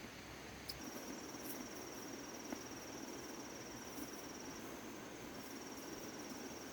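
An insect trilling in a long, steady, high-pitched buzz starting about a second in, pausing briefly, then trilling again. A faint background hiss lies underneath.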